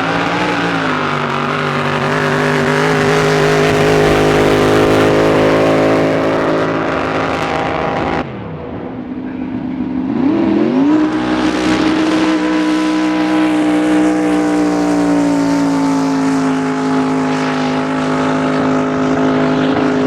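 Racing drag-boat engine running hard with a steady high pitch. About 8 seconds in it drops off suddenly, then revs up again about two seconds later and holds a steady pitch that sags slowly.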